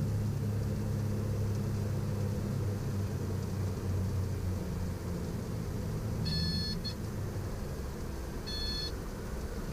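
Steady low cabin drone of a Piper Navajo's twin piston engines heard through the cockpit audio, with two short electronic beeps, the first about six seconds in and the second about two seconds later.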